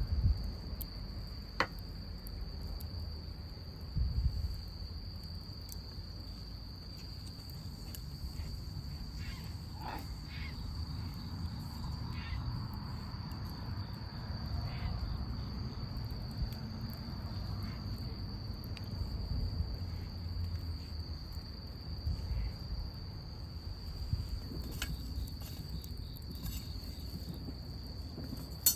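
Crickets trilling in one unbroken high note, over a low rumble, with a few light knocks.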